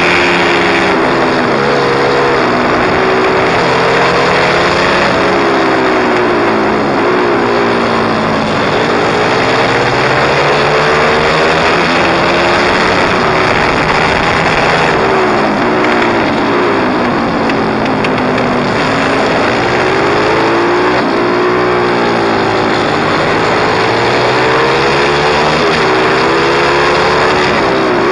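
Pit bike engine being ridden hard, its pitch climbing and dropping again and again as it revs up and backs off, under a steady rush of noise.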